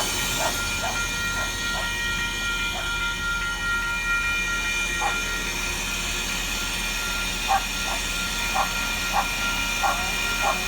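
Sprinter diesel railcar (Siemens Desiro) running at the station with a steady hum and a thin whine. Short, sharp yaps come at irregular intervals over it, more of them in the second half.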